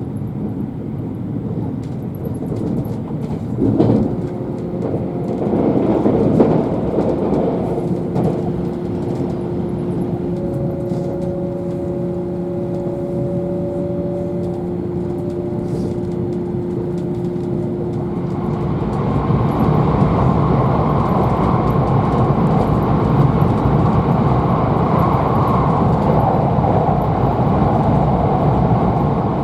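Electric train running, heard from inside the passenger car: a steady rumble of wheels on rail with a steady hum through the middle. It grows louder and rougher about two-thirds of the way in.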